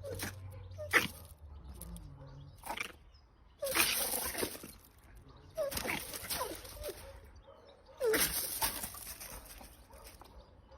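An animal's vocal sounds: short squeaky cries mixed with three louder, noisy bursts a couple of seconds apart.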